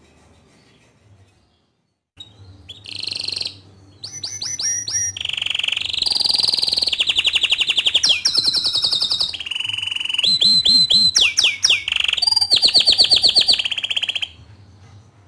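Domestic canary (green variety) singing a long, loud song of fast trills and rapidly repeated high notes. It starts about two seconds in and stops about a second before the end.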